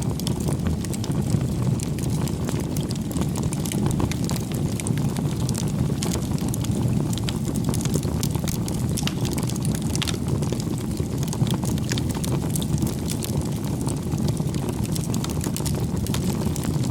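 Wood fire burning: the steady low noise of the flames with frequent small crackles and pops throughout.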